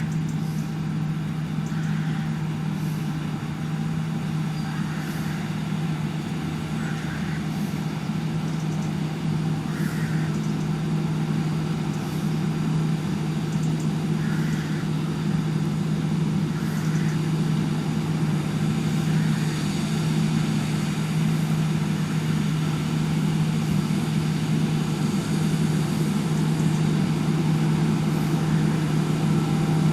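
Heavy diesel engine of harvest machinery, a combine harvester or tractor, running steadily under load with a constant low hum.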